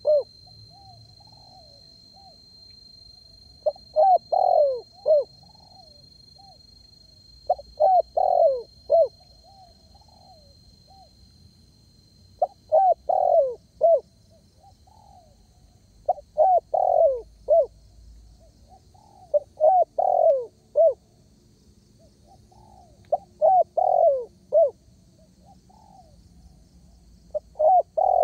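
Spotted dove (derkuku) cooing loudly: a phrase of several short coo notes, repeated about every four seconds, seven times over, with the next phrase starting at the very end.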